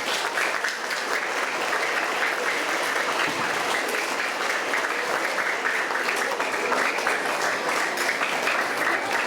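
An audience of schoolchildren applauding, a steady, dense clapping that holds at an even level throughout.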